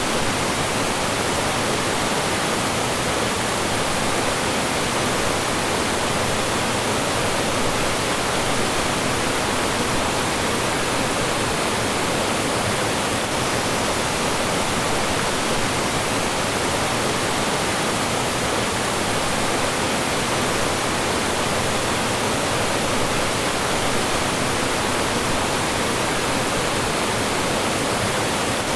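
Mountain stream rushing and falling over rocks, a steady, even roar of water with no change.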